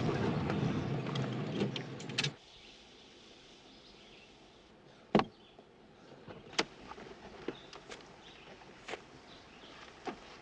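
A car engine runs for about two seconds and cuts off suddenly. About five seconds in a car door clicks loudly, followed by a few faint knocks.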